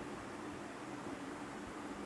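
Steady background hiss with a low hum, unchanging throughout; no distinct bird calls stand out.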